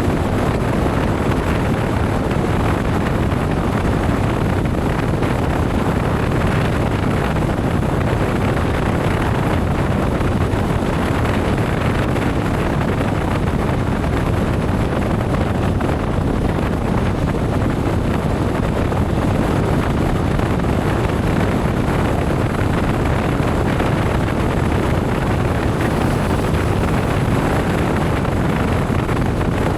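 Steady rush of wind on the microphone mixed with the running noise of a motorcycle riding at speed.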